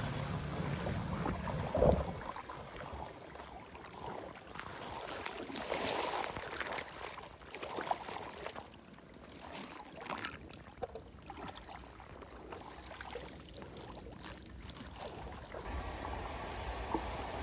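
Water splashing and running, with uneven washes of noise and one sharp knock about two seconds in.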